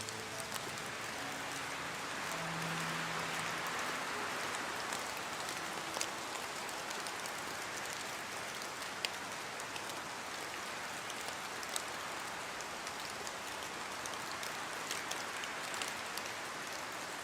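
Steady heavy rain with a dense, even hiss and scattered individual drops ticking sharply.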